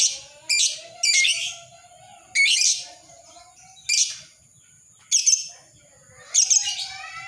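Lovebird calling in a string of short, shrill, harsh chirps, about one a second.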